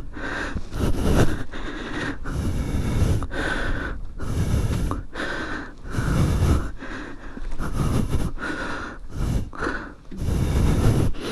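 Heavy, fast breathing close to the microphone, about one breath a second: a man out of breath from lifting a heavy fallen motorcycle.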